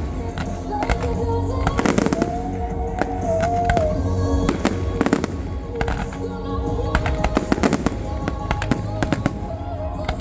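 Fireworks display: many sharp bangs and crackles in quick clusters, over a song playing on loudspeakers.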